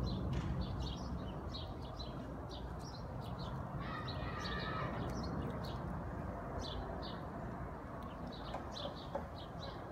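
Small birds chirping, short high chirps repeated throughout, with a longer, fuller call about four seconds in, over a steady low background rumble.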